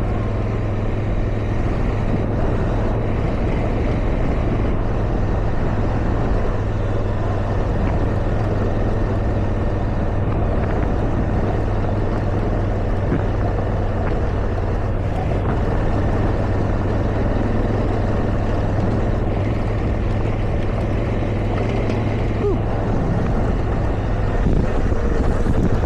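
Motorcycle engine running steadily at riding pace, with wind rushing past the microphone.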